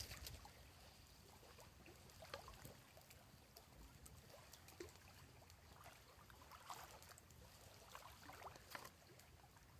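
Near silence: faint outdoor background with a few scattered light clicks.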